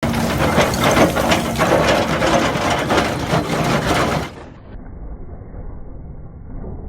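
Excavator-mounted drum cutter grinding hard caliche rock: a dense, loud rattle of crunching and clicking over a steady hum. It cuts off suddenly about four seconds in, leaving a quieter, muffled rumble.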